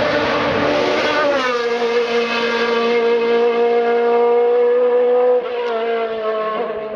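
Hill-climb race car engine at high revs. The note drops about a second in, holds steady for about four seconds, then dips slightly and gets quieter near the end.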